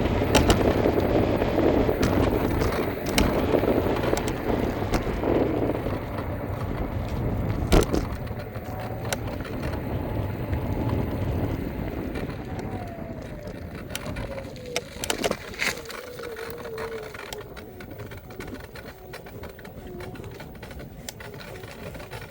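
Electric scooter riding over pavement: wheel and road rumble with rattles and knocks, loudest for the first several seconds and then easing off. Midway a faint whine slides down in pitch.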